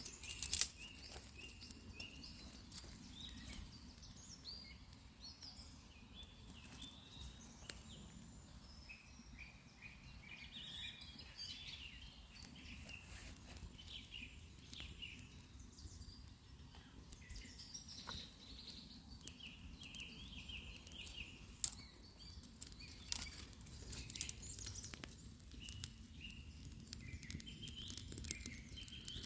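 Wild birds singing: many short chirping phrases over a low steady outdoor background, with a few sharp clicks or knocks scattered through, the loudest about 22 seconds in.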